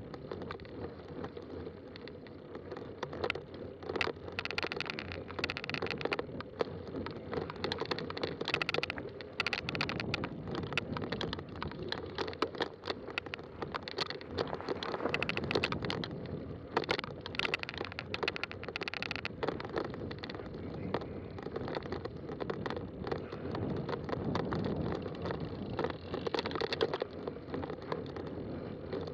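Fat-tire mountain bike riding along a dirt trail: continuous tyre rumble with frequent small rattles and knocks from the bike going over bumps.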